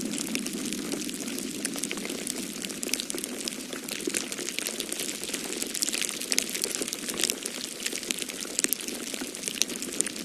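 Wood fire crackling with frequent small, sharp pops, over a steady low rush of snowstorm wind.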